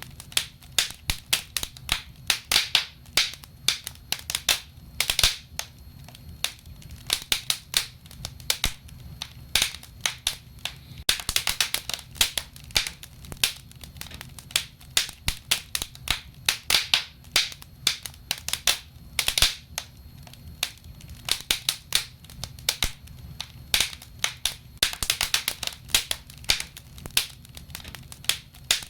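Wood fire crackling in a fireplace: irregular sharp pops and snaps, sometimes in quick clusters, over a low steady rumble.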